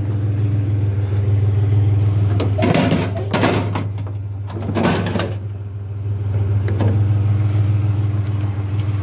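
Pickup truck engine running steadily as the truck drives along, heard from the cab, with a few brief rushing noises about three and five seconds in.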